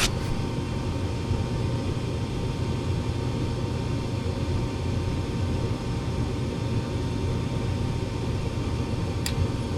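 Gas furnace running steadily with a newly replaced gas valve: a constant hum from the inducer motor and lit burners. A single light tick comes near the end.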